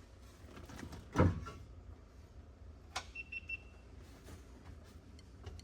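Handling noises from prying at car dashboard trim: a dull thump about a second in, then a sharp click near three seconds followed by a few short, high squeaks and some small ticks.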